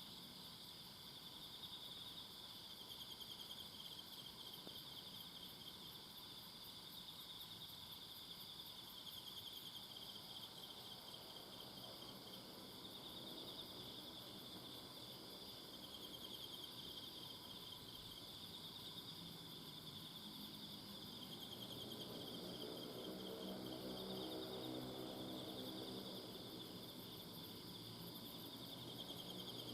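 Crickets and other insects trilling in a continuous high-pitched chorus. A low, distant hum swells and fades underneath, most clearly in the second half.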